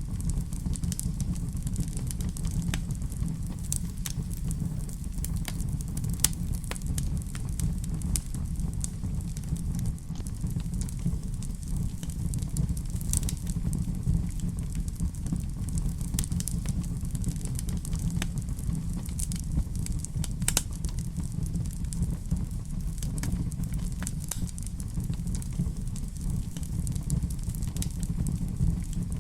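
Wood fire burning in a fireplace: a steady low rumble of flames with scattered sharp crackles and pops of burning logs, several a second.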